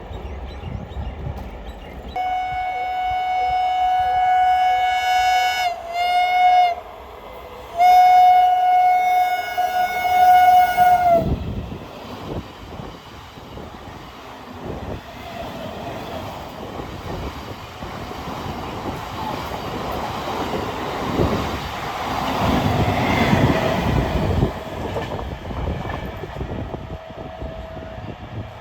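Electric multiple unit train's horn sounding three times: a long blast, a short one, then another long one. It is followed by the rumble and clatter of train wheels on the track, which grows louder and then eases off near the end.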